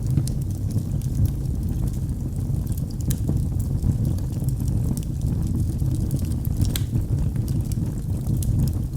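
Wood fire burning in a fireplace: a steady low rumble of flames with scattered sharp crackles and pops, a few louder pops near the end.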